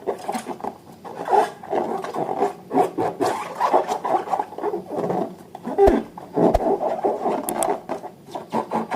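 Hands working slime and rubber balloons: a continuous, irregular squishing and rubbing, with two short soft thuds about two-thirds of the way through.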